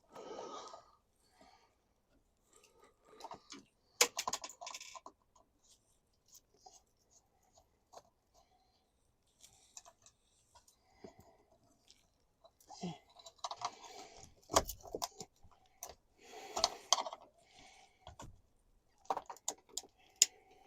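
Scattered clicks, knocks and small rattles of hand work taking apart camper fittings and screws. There is a sharp click about four seconds in, then a quiet stretch, then busier clicking and knocking in the second half.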